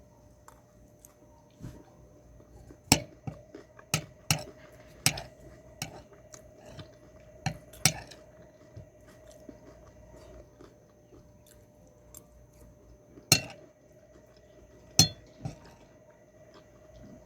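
Close-up eating sounds: chewing, broken by sharp clicks and taps, a cluster of them in the first half and two more loud ones later on, over a faint steady hum.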